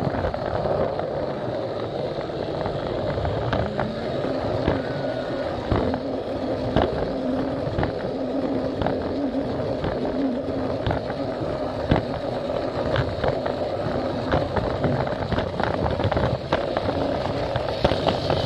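Plarail toy train's small motor running as it rolls along plastic track, with irregular clicks as the wheels pass over the track joints.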